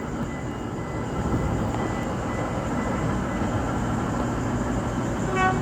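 Bombardier diesel passenger train pulling out of the station, a steady engine and rail rumble. A brief pitched tone sounds near the end.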